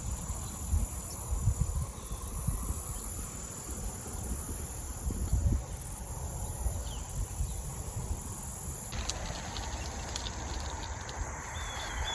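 Insects trilling in a high, shrill, steady chorus that swells and fades every second or two, over a low rumble.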